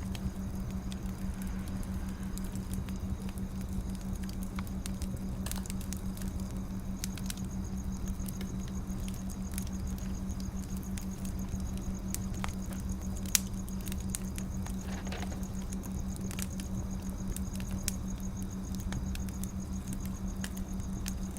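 Firewood burning: scattered small crackles and pops, with one sharper pop about 13 seconds in, over a steady low hum.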